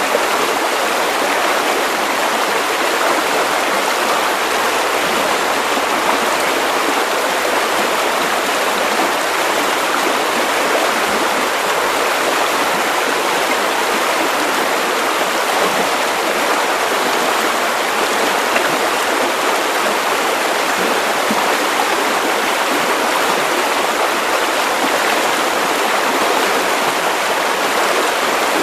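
Steady white noise: an even hiss with little bass.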